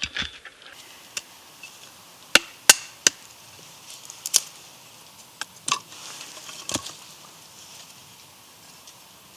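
Wood being chopped for a small campfire: about seven sharp, irregularly spaced knocks, the loudest nearly three seconds in.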